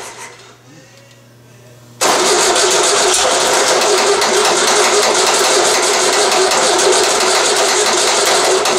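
VW 1600 dual-port air-cooled flat-four being cranked over by its starter without catching. A burst of cranking starts about two seconds in, runs steadily with even pulses for about seven seconds, then stops. The engine won't fire because the carburettor float bowl has not yet filled with fuel.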